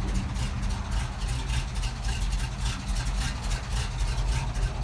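The 361 cubic inch Ford FE V8 of a 1971 Ford F700 fire truck idling steadily with a low, even rumble.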